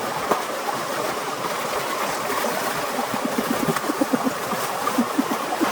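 Steady rushing water noise, an even hiss that runs unbroken.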